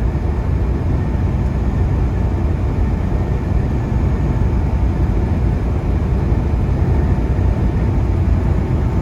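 Steady drone of a semi truck's diesel engine and road noise heard inside the cab while driving, an even low rumble with no changes.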